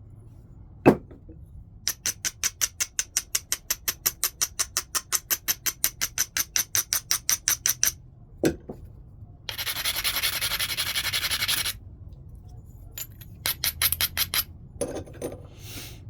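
Flintknapping: a sharp knock of a hammer or billet on the stone, then fast even scraping strokes, about six a second, as the edge is abraded. Another knock follows, then a couple of seconds of continuous grinding and a few short scrapes near the end.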